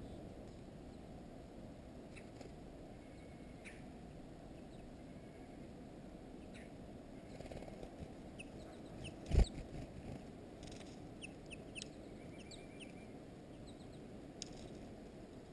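Small songbirds at a feeder calling with faint, short, high chirps, scattered through and more frequent in the second half, over a steady low background rumble. A single sharp knock about nine seconds in is the loudest sound.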